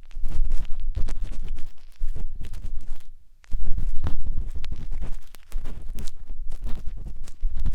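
Close-up scratching and rubbing of a matchstick inside the silicone ear of a 3Dio binaural microphone, with deep rumbly thuds and small clicks. It pauses briefly about three seconds in, then carries on.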